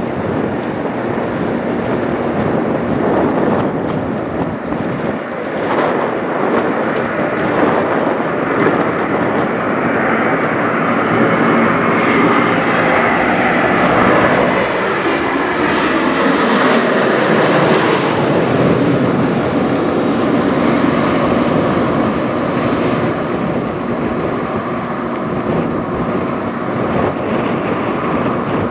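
Airbus A220-300 jet flying low overhead, its geared turbofan engines building to a loud peak about halfway through. The engines then fall in pitch and ease off as the jet passes.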